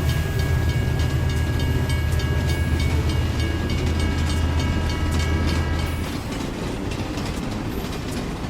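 Small electric motors and plastic gears of DIY toy construction vehicles running, with a steady low hum, a high whine and rapid regular clicking. The hum and whine cut off about six seconds in, leaving quieter clicking.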